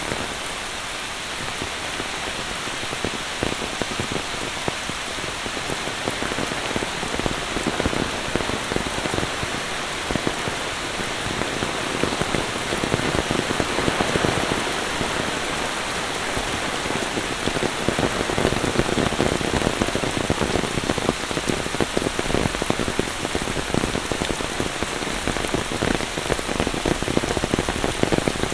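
Monsoon rain falling steadily in a dense patter of drops, growing a little louder about two-thirds of the way through.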